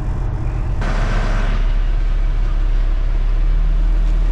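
Semi-truck diesel engine running steadily, with a short burst of hiss about a second in. The engine note rises a little near the end.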